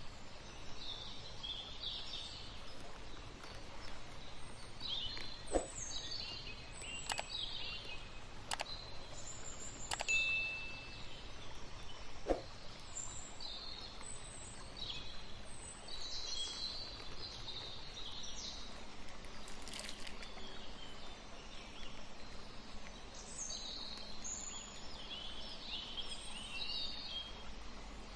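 Small birds chirping and singing in scattered short phrases over a steady background hiss, with a few soft clicks in the first half.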